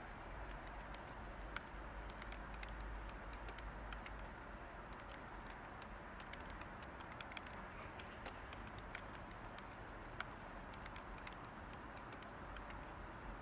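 Light computer keyboard typing, irregular scattered keystrokes, over a steady background white-noise hiss.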